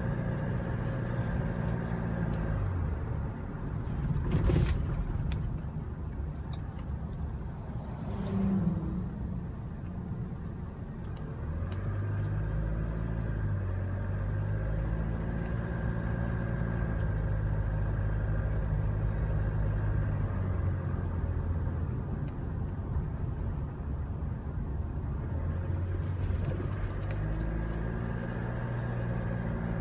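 Engine of a 1-ton truck running on the road, heard from inside the cab, its low hum shifting in pitch several times as the truck changes speed. A brief knock about four seconds in.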